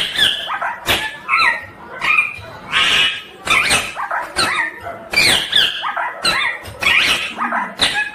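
Ringneck parakeet giving a string of short, harsh calls, about two a second.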